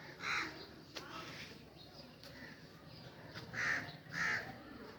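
A bird calling with short, harsh calls: one at the start, then two in quick succession near the end.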